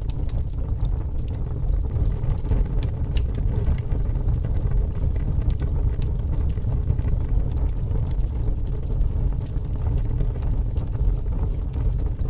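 Fire burning: a steady low rumble with small crackles scattered throughout.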